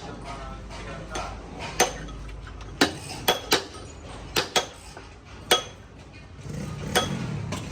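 Steel tools clinking and striking metal gearbox parts, about eight sharp, irregular metallic knocks with a short ring.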